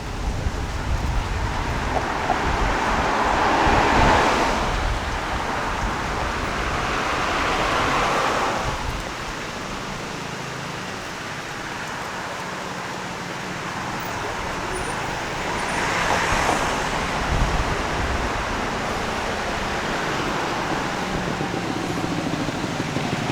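Road traffic with cars passing one after another, each swelling and fading away. The loudest pass comes about four seconds in, and others come about eight and sixteen seconds in.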